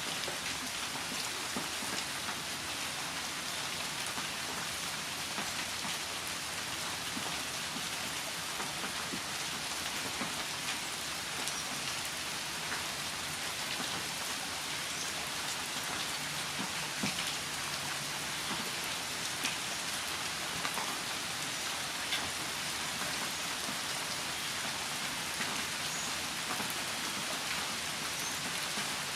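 Steady rain falling, an even hiss dotted with the ticks of single drops striking.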